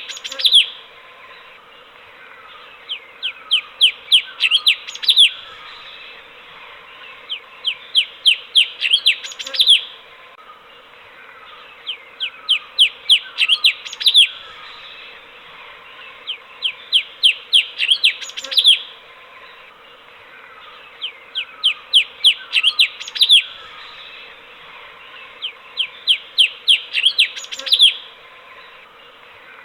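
Cucak cungkok, a bulbul, singing the same phrase again and again, about every four and a half seconds. Each phrase is a quick run of sharp chirping notes that gets louder and ends on one loud note, over a steady background hiss.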